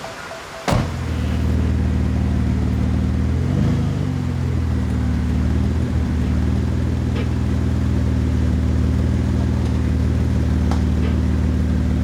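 A steady low engine hum that cuts in abruptly with a click about a second in, with a brief pitch wobble a few seconds later.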